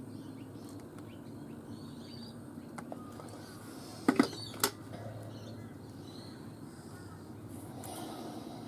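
Three sharp knocks in quick succession about four seconds in, over a low steady background hum.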